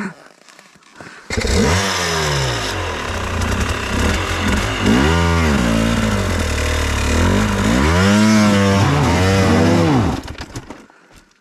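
Enduro dirt bike engine starts abruptly about a second in and is revved, its pitch rising and falling a few times, then dies away about ten seconds in.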